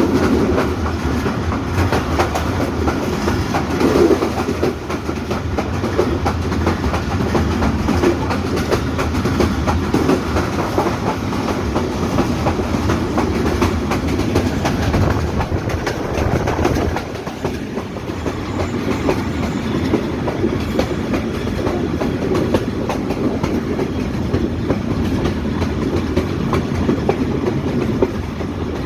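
Hazara Express passenger train running along the track: a steady rumble with the wheels clattering over the rail joints. The sound drops briefly a little over halfway through, then picks up again.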